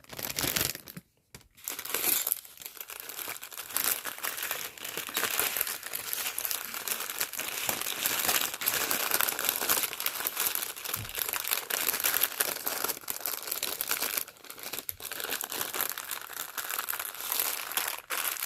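Plastic packaging crinkling and rustling as it is handled, with many small crackles. It falls quiet briefly about a second in, then the crinkling carries on.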